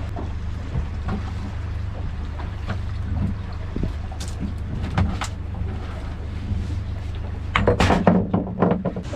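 A small fishing boat's engine running steadily, with scattered clicks and a short burst of knocking and clattering near the end.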